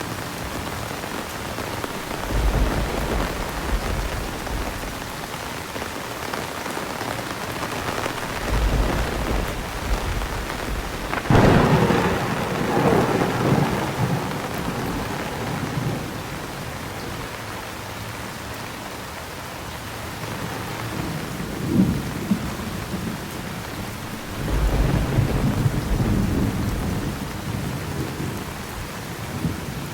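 Heavy rain falling steadily through a thunderstorm, with several deep rolls of thunder. One sharp, crackling thunderclap about a third of the way in is the loudest moment, and it rumbles on for a few seconds.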